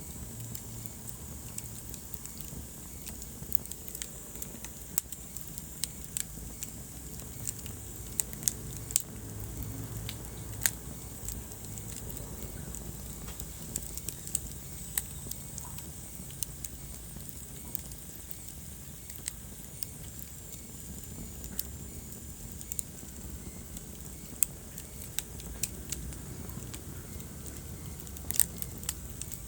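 Wood fire burning in a fireplace: irregular sharp crackles and pops over a low, steady rumble, with a small cluster of louder pops about a third of the way in and again near the end.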